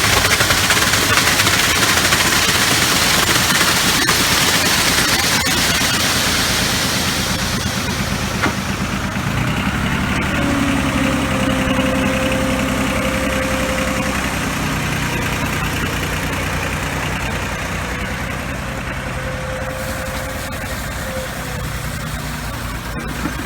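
An engine running steadily at a constant speed, with a broad rushing noise over it for the first several seconds that then fades, leaving the engine's steady hum.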